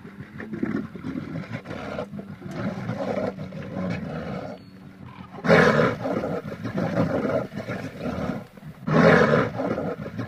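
A large wild animal roaring, with continuous rough vocalising and two loud roars about five and a half and nine seconds in.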